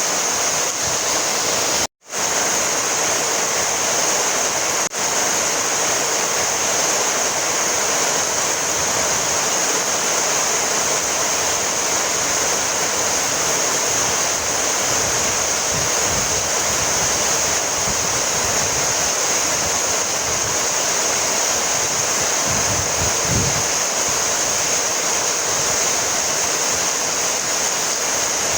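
Heavy rain falling steadily as an even hiss, with a split-second dropout about two seconds in.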